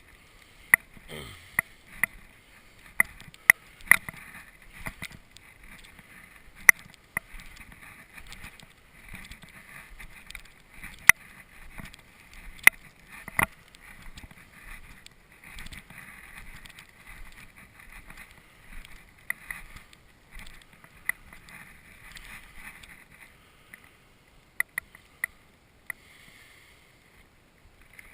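Boots crunching through deep drifted snow in an uneven walking rhythm, with scattered sharp clicks.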